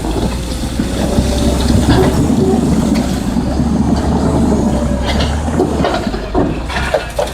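Heavy machinery running: a deep, steady engine rumble with rattling and scattered knocks. The deep rumble drops away about six seconds in.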